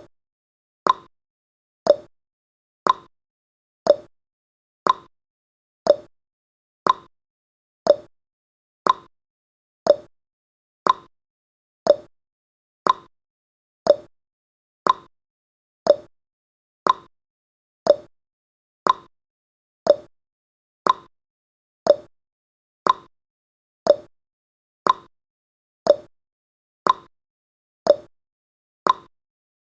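Countdown timer's tick sound effect: a short, sharp tick once every second, evenly spaced.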